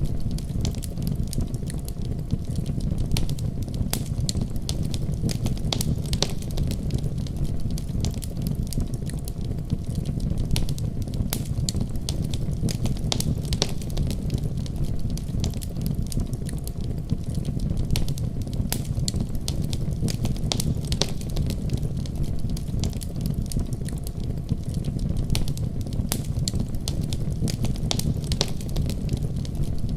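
Fireplace crackling, with frequent small sharp pops scattered irregularly throughout, over a steady deep rumble of a winter storm.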